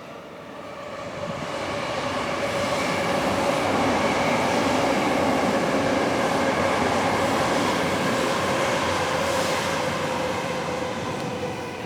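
Electric train passing: the rumble of the cars with a steady motor whine on top, swelling over the first couple of seconds, holding, then fading near the end.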